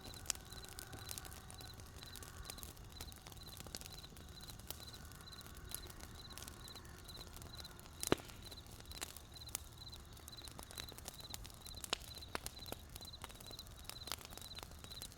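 Campfire burning with wood crackling in scattered sharp pops, one louder snap about eight seconds in, while a cricket chirps steadily in an even rhythm.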